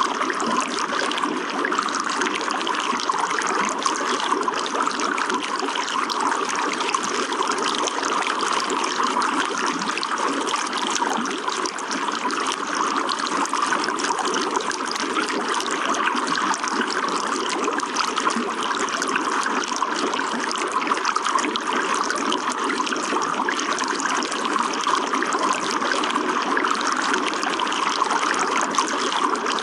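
Running water trickling and splashing steadily, an even rush with no breaks.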